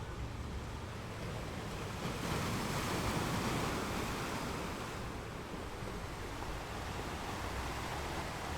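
Ocean waves breaking on a beach: a wash of surf that swells about two seconds in, peaks, then slowly recedes, over a low steady rumble.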